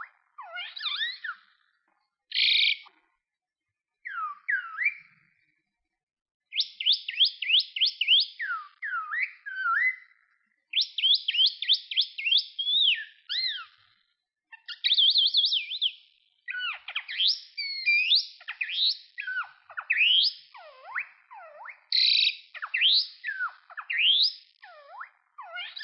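Common myna calling: bursts of rapid, fast-gliding whistled notes and chattering phrases, broken by short silent gaps, with a few harsh rasping notes mixed in.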